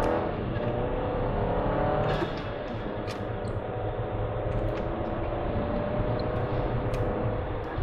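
Volkswagen Tiguan's engine pulling under acceleration, heard from inside the cabin over steady road rumble. Its pitch rises and then drops back about two seconds in.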